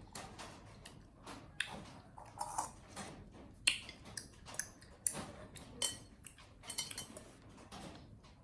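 Irregular light clicks and clinks, a dozen or so scattered taps, some with a short ring.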